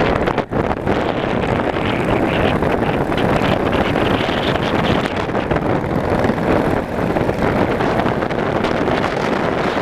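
A Yamaha motorcycle under way, its engine and road noise under steady wind rushing over the microphone, with a brief drop about half a second in.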